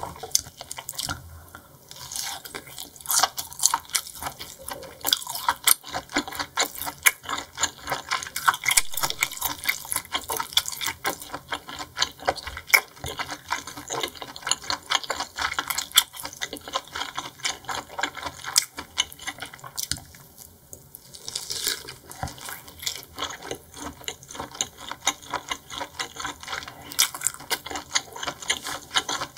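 Close-miked wet chewing of seafood: a dense run of rapid small clicks and squelches. It thins out briefly about one and a half seconds in and again around twenty seconds in.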